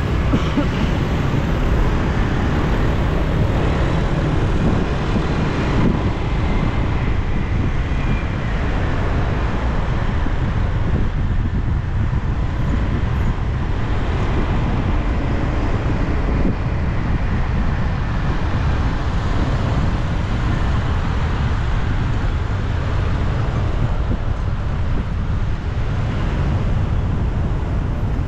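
Steady road traffic noise: a continuous low rumble of passing vehicles, with no single event standing out.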